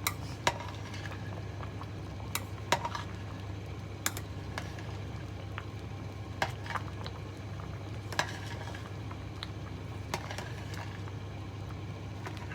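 Pot of ginataang bilo-bilo, rice balls in coconut milk, simmering near the end of cooking, over a steady low hum. About a dozen irregular sharp clicks sound through it, a utensil knocking against the pot.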